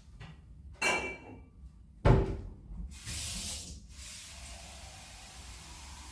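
A light clink, then a heavy knock like a cupboard or door shutting, then a short burst of hiss that settles into a steady hiss.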